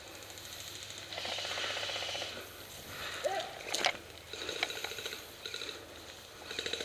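Airsoft electric guns firing rapid full-auto bursts, each a fast mechanical rattle of the gearbox cycling: a long burst about a second in, another about halfway through, and one more near the end, with a single sharp snap in between.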